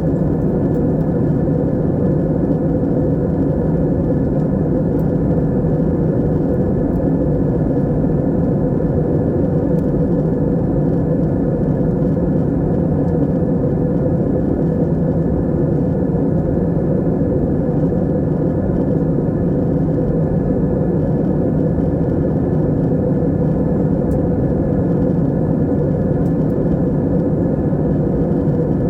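Steady low drone of an airplane in flight, heard from inside the passenger cabin: engine and airflow noise without change.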